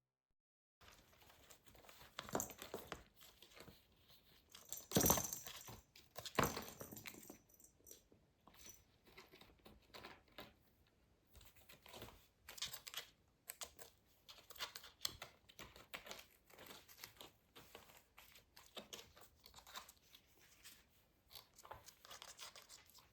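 Faint, irregular rustling and crinkling of crinkly paper as kittens play with it, with a couple of louder crackles about five and six and a half seconds in.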